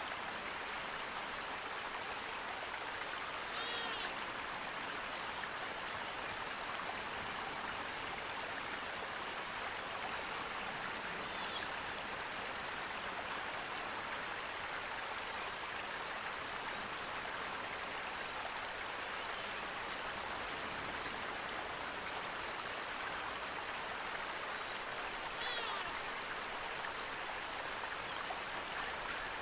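Flowing water rushing steadily, a stream or small waterfall, with a few faint, short bird chirps about 4 seconds in, near the middle and near the end.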